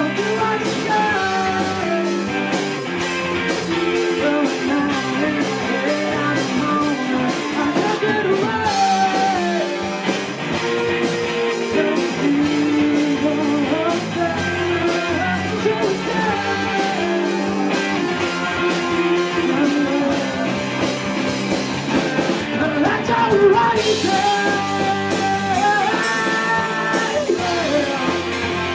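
A rock band playing live with a singing voice over it, the drums keeping a steady beat.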